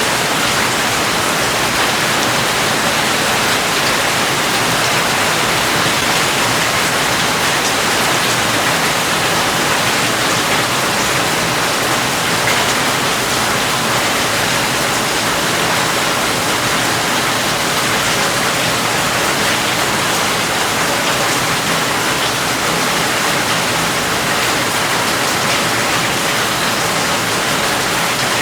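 Steady heavy rain: a dense, even hiss of falling water with no individual drops or thunder standing out.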